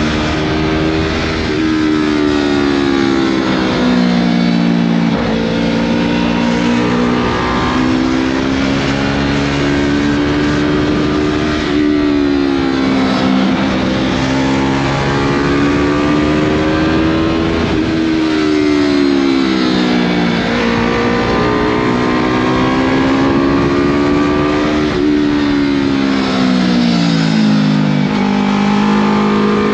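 Motorcycle engine breathing through a Scorpion full aftermarket exhaust system while riding, its pitch climbing and falling again and again as the rider accelerates and eases off, with a sharp jump in pitch about twelve seconds in.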